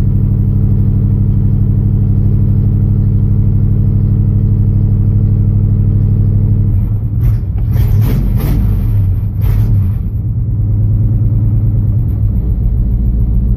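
1982 Chevy Custom Deluxe pickup's engine, heard from inside the cab, cranking over on the starter in an even pulsing rhythm; about seven seconds in it catches and sputters unevenly for a few seconds, then settles into a steady, rough running. A cold start without choke.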